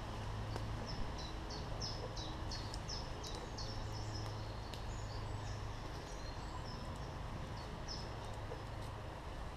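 A small songbird singing a rapid run of short, high, slightly falling notes, about three a second for the first few seconds, then a few scattered notes. Under it is a steady low rush of the flowing river.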